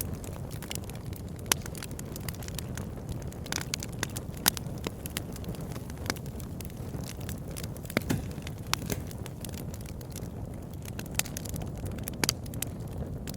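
Campfire burning with a steady low rumble and irregular crackles and pops, a few louder snaps among them.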